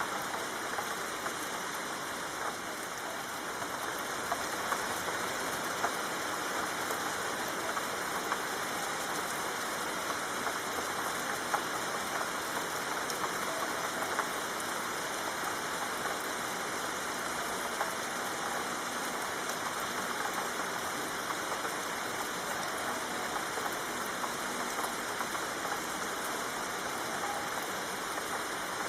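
Steady soft rain: an even hiss with scattered small drop ticks.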